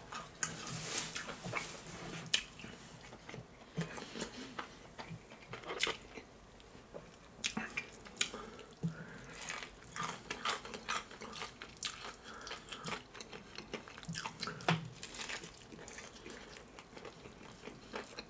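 Close-miked chewing and biting of KFC fried chicken: irregular crunches and wet mouth clicks, some louder than others.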